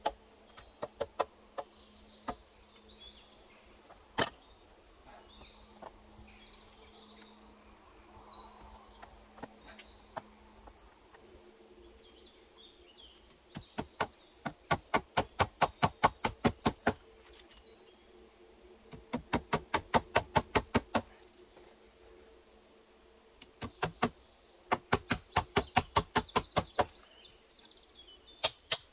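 Rapid hand-tool blows, scattered single knocks at first and then three runs of quick, sharp strikes at about four a second, typical of chopping or hammering work on a shelter build.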